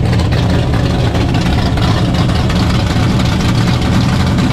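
Drag racing car's engine idling loud and steady.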